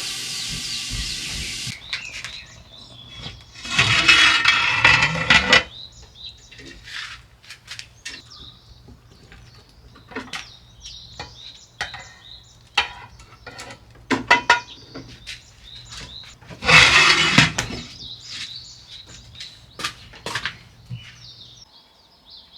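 Washing up at a sink: tap water running in short spells, with dishes and cutlery clinking and knocking in between.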